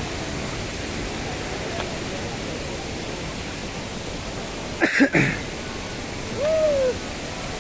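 Waterfall rushing steadily. About five seconds in there is a brief, sharp, loud sound, and shortly after it a short call that rises and falls once.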